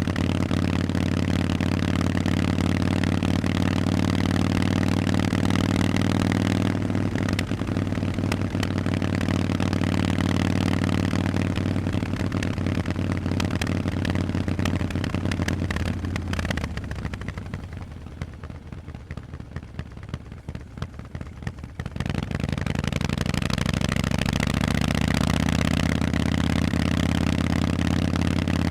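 Harley-Davidson Forty-Eight's air-cooled V-twin through Vance & Hines exhausts, running steadily under way. About 16 seconds in, the engine note drops away for about five seconds, then comes back and climbs in pitch as the bike accelerates.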